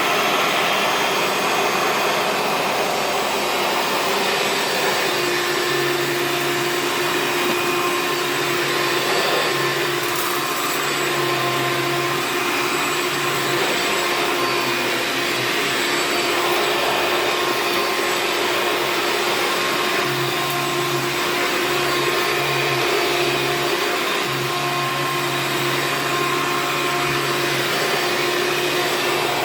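Hoover Preferred upright vacuum cleaner running steadily with a constant hum, cleaning up spilled pipe tobacco.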